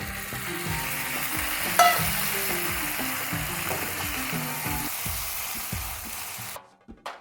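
Food sizzling as it fries in a pan, with background music underneath. There is one sharp clink about two seconds in, and the sizzling cuts off shortly before the end.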